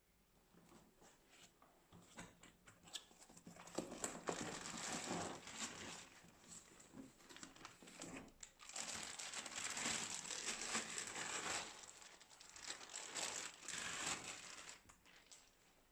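Laptop packaging being unwrapped and handled: irregular crinkling and rustling with scattered clicks, in surges that grow louder after the first few seconds.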